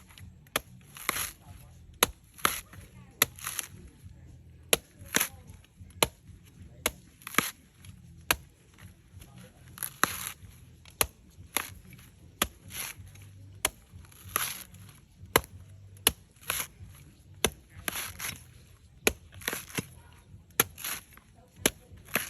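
A blade chopping into a coconut with repeated sharp strikes, roughly one to two a second at an uneven pace.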